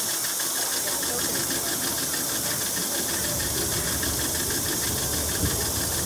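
A tour boat's motor running steadily under a constant hiss, with a fast, even pulse.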